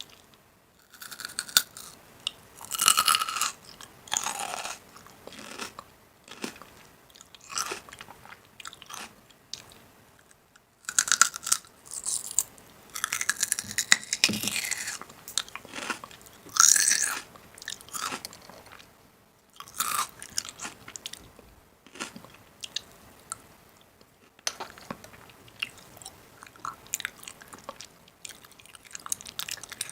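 A person biting and chewing crunchy food close to the microphone, in irregular bursts of crackling crunches with short pauses between mouthfuls.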